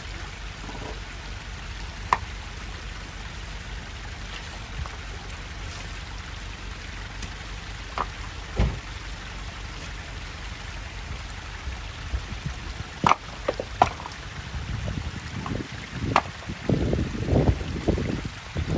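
Land Rover Defender pickup's engine idling steadily, with several sharp knocks and clinks as men work at its front wheel. The last few seconds turn louder, with irregular rumbling and knocking.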